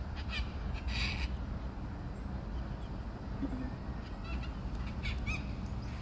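A few short, harsh bird calls at intervals: two in the first second or so and two more near the end, over a steady low rumble.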